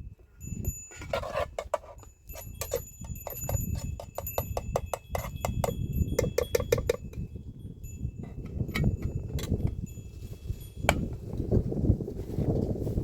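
Small metal livestock bells jingling and clinking with quick irregular strikes, clustered in the first half. A steady low rumble runs underneath.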